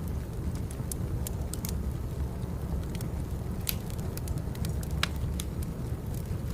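Firewood burning: a steady low rumble with irregular sharp crackles and pops, the loudest pop about five seconds in.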